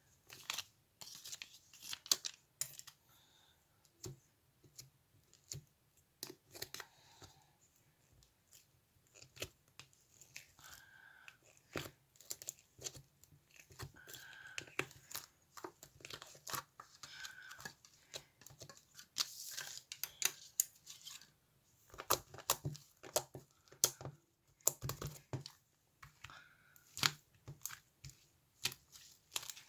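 Irregular crinkling, crackling and tearing, like material being handled and torn, with scattered sharp clicks.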